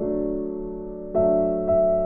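Background piano music: slow, soft chords, each struck and left to fade, with new ones at the start, a little after a second in, and near the end.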